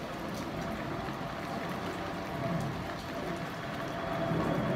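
Steady rain falling and pattering, picked up from under a makeshift rain cover.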